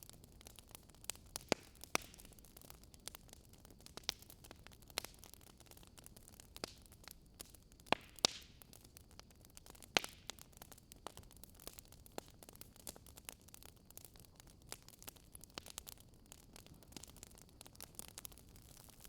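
Wood fire crackling: irregular sharp pops, roughly one a second, over a faint steady hiss.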